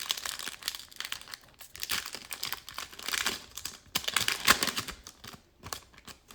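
Trading-card packs and cards being handled: plastic wrapper crinkling and rustling with quick clicks and scrapes of cards, busiest about halfway through.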